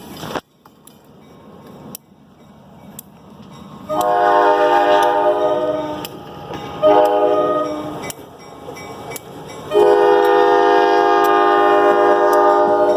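Freight locomotive air horn sounding three blasts, long, short, then long, over the low rumble of the approaching train.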